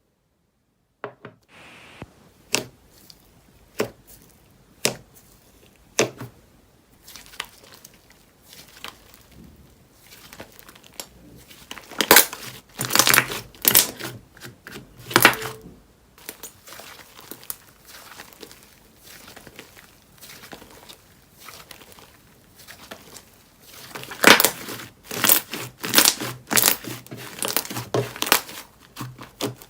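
Slime being played with by hand, making sticky pops and crinkly crackling. A few sharp single pops come in the first six seconds, then two spells of dense crackling and popping: one from about twelve to sixteen seconds in, the other from about twenty-four seconds on.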